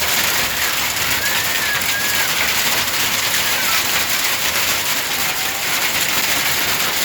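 Hail and rain pelting down in a steady, dense hiss, with a few faint rising and falling whistles over it.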